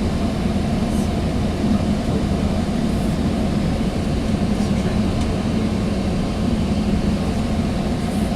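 Steady ride noise inside a moving Sounder commuter rail coach: a continuous low rumble and drone from the wheels on the rails and the running gear, with a few faint ticks.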